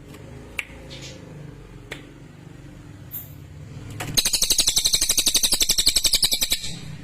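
Cililin songbird singing: a few short, sharp calls, then, about four seconds in, a loud, rapid trill of evenly repeated notes lasting over two seconds.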